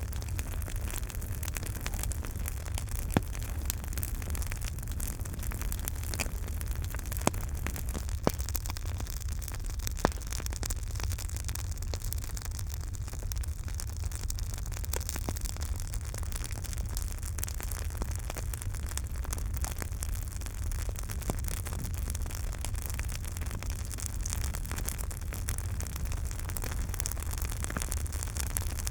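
Campfire burning: a steady low rush and hiss of flames with scattered crackling pops. A handful of louder snaps come in the first ten seconds or so.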